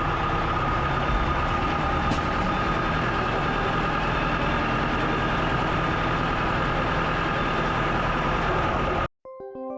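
Backhoe loader's Yuchai diesel engine running steadily, with a constant high whine over the engine note. Near the end the machine sound cuts off abruptly and music begins.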